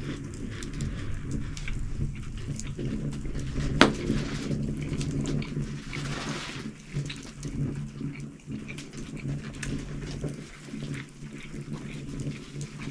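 Close-up chewing and mouth sounds of a person eating sprats on toast, with scattered small clicks and one sharp click about four seconds in, over a steady low hum.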